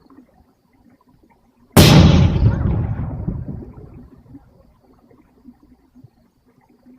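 A single aerial firework shell bursting: a sudden loud boom about two seconds in, its rumble fading away over the next two seconds.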